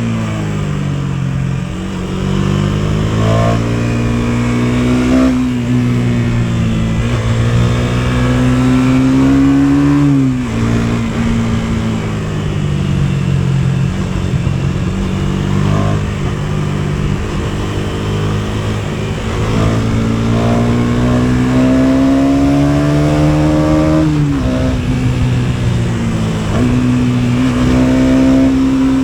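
KTM Duke 250's single-cylinder four-stroke engine pulling under way, its note climbing steadily and then dropping sharply at gear changes, twice clearly and once more briefly.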